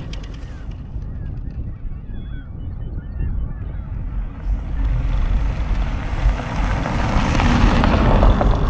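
Wind buffeting the microphone in a low rumble while riding, growing steadily louder from about halfway through as speed picks up. A few faint high chirps sound around the middle.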